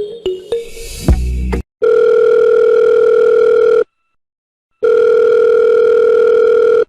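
Two long, steady electronic beeps on one pitch, each lasting about two seconds with about a second of silence between them, in the manner of a telephone tone. Before them come a few clicks, a brief hiss and one sharp hit.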